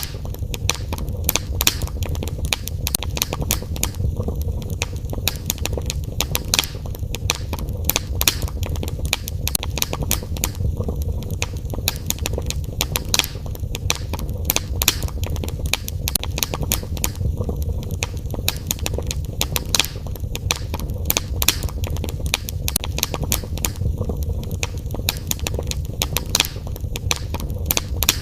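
Wood fire burning in a fireplace: constant crackling with frequent sharp pops and snaps over a steady low rumble.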